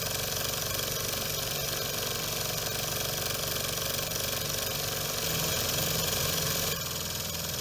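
PM Research Solar Engine #4, a small beta-type model Stirling engine, running steadily with a fast mechanical clatter, over a steady broad hiss. Near the end the sound shifts abruptly and gets slightly quieter.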